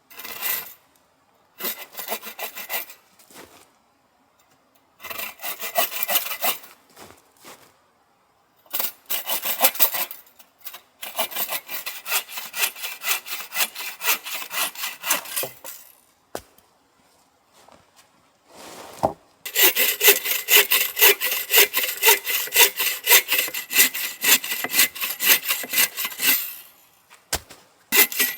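A hand saw cutting firewood in bouts of quick back-and-forth strokes with short pauses between them. The longest, loudest run of strokes comes in the last third.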